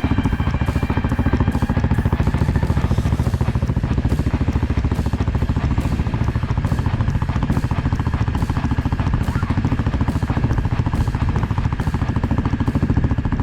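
Dirt bike engine running at a steady pace, its firing pulses even and unbroken.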